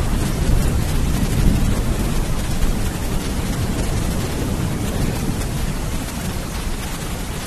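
Steady heavy rain with a deep rolling thunder rumble that slowly dies away through the second half.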